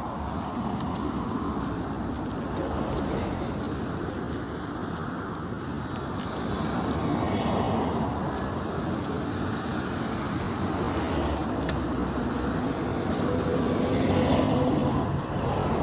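Road traffic noise: a steady rumble of vehicle engines and tyres, swelling louder about halfway through and again near the end as vehicles pass close by.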